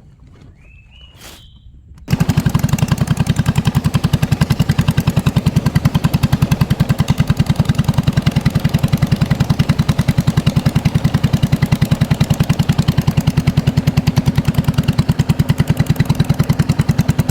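A small engine running steadily, loud and close, with a fast even chugging beat. It starts abruptly about two seconds in.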